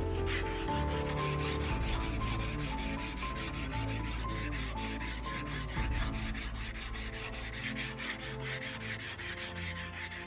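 Hand-held abrasive rubbing on a katana's steel, worked back and forth in quick, even strokes, with light background music.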